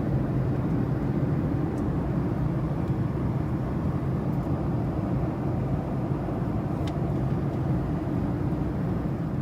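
Steady low roar of a Boeing 757-200 airliner cabin in flight: engine and airflow noise holding an even level, with no change in pitch.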